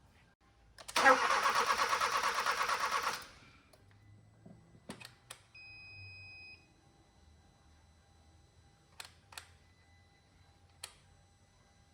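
Starter cranking a 2012 Hyundai Veloster's rebuilt G4FJ 1.6 turbo engine in an even pulsing rhythm for about two seconds, then stopping. About two seconds later there is a short steady beep, and a few sharp clicks follow.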